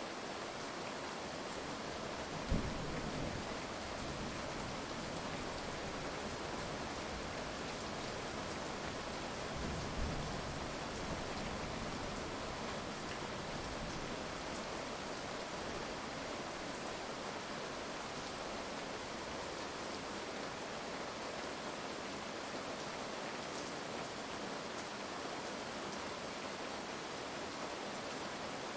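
Heavy rain falling steadily, with thunder: a sudden low clap about two and a half seconds in that rolls off over a few seconds, and a second, softer rumble about ten seconds in.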